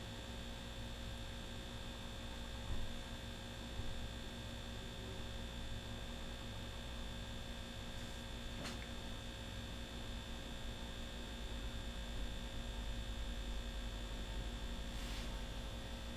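Steady electrical mains hum made of several fixed tones, with a few faint ticks and knocks.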